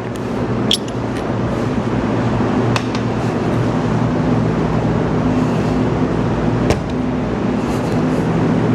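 Steady machine hum at a fixed low pitch, growing slightly louder, with a few sharp light clicks.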